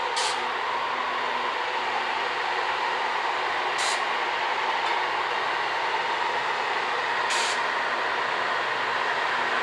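Freight train led by two CSX GE diesel locomotives crossing a steel girder bridge: a steady rumble of engines and wheels, with a brief high-pitched burst about every three and a half seconds.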